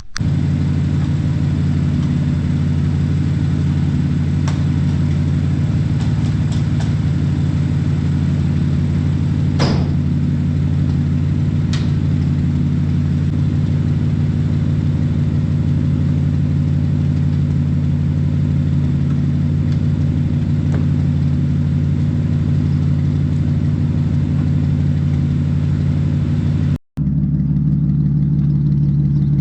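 Audi B8 S4's supercharged 3.0-litre V6 idling steadily, with no revs. About 27 seconds in, the sound cuts out for an instant and comes back with a duller tone.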